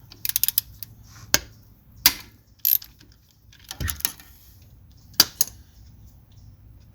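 Metal clicks and clinks of a 6 mm Allen key working the screw that holds the hydraulic filter screen housing on a John Deere 1025R. There is a quick cluster of clicks near the start, then single sharp clicks about a second apart.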